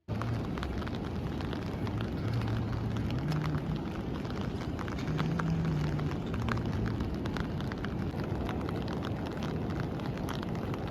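Steady rain, with many sharp drop ticks close by over an even wash of noise, and a faint low hum that rises and fades a few times.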